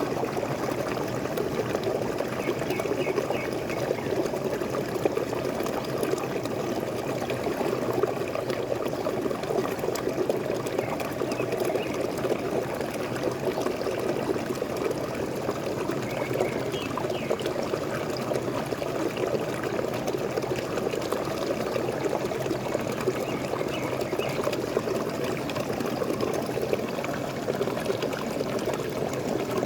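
Waterfall water pouring and splashing steadily, an even gurgling rush with no breaks.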